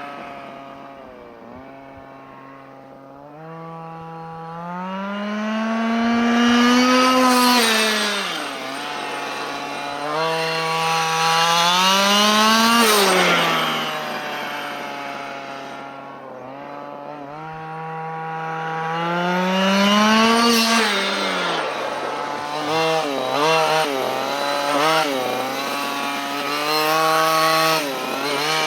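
The Losi Desert Buggy XL's 23cc two-stroke gas engine (Dynamite CY23cc) running during its break-in, its revs climbing and falling three times. Several quick blips of throttle follow near the end.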